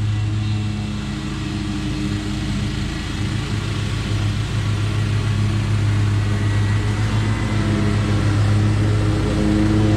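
Commercial lawn mower's engine running steadily under load while cutting thick, wet grass, growing somewhat louder toward the end.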